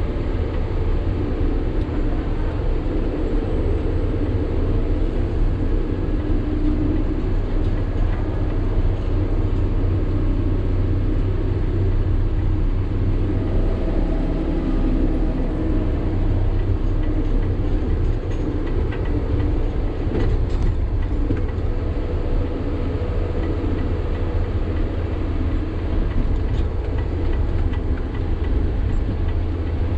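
Diesel engine of a Sany 6x4 dump truck running steadily under way, with a constant low drone and road rumble.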